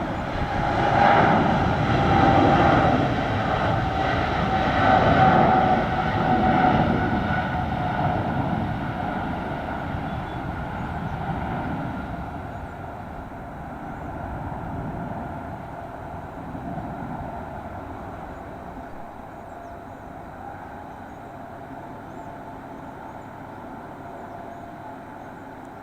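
Jet airliner's engines passing close: loud rumbling with a steady whine. The whine sinks a little in pitch as the noise dies away over the following seconds.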